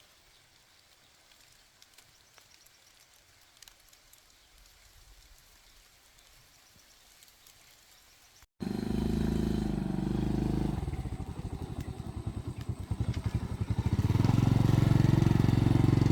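Low background for about eight seconds, then a D8 single-cylinder diesel engine cuts in abruptly, running with a fast, even firing beat. It gets louder, speeding up, about two seconds before the end.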